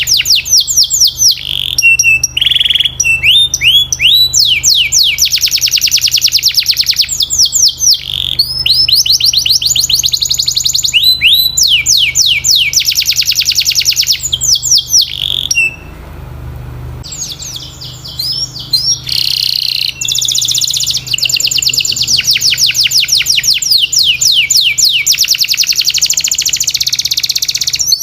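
Domestic canary singing in phrases of fast, high-pitched trills, each a rapid run of repeated downward-sliding notes, with a short break about sixteen seconds in.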